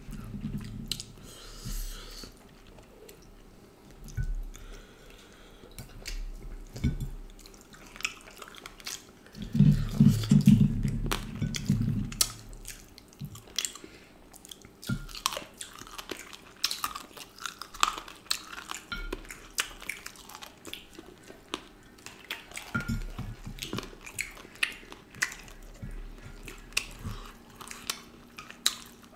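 Close-up eating sounds of two men chewing and biting pieces of duck curry eaten by hand: wet chewing and mouth clicks. About ten seconds in, a low hummed voice sounds for about two seconds, the loudest thing heard.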